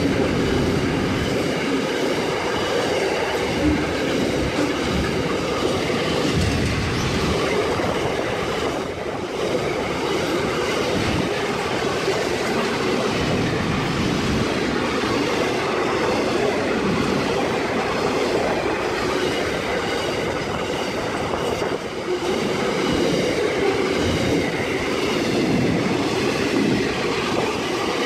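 Freight train's container and steel-plate wagons rolling past close by at a steady speed: a continuous rumble of wheels on rail, with a faint high wheel squeal over it.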